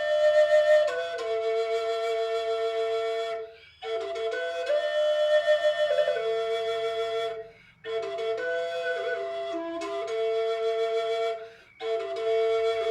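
A wind instrument, flute-like, plays a slow melody beneath a steady held drone note. It goes in breath-long phrases of three to four seconds with brief pauses between them.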